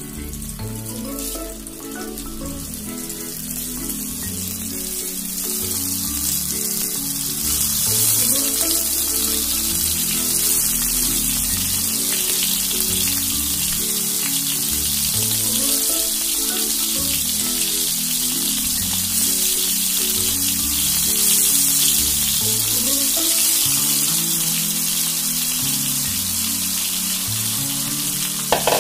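Masala-coated brinjal slices shallow-frying in hot oil in a nonstick pan: a steady sizzle that gets louder about eight seconds in as the pan fills with slices. Background music plays under it.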